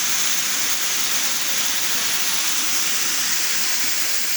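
Water falling into a natural pool: a steady, unbroken rushing.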